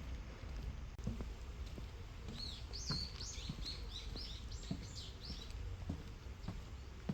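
A songbird singing a quick run of about ten high, swooping notes, starting about two seconds in and lasting about three seconds, over soft footsteps on a path.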